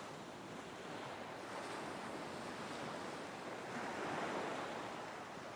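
Ocean waves washing on a shore: a soft, steady surf that swells a little about four seconds in and then eases back.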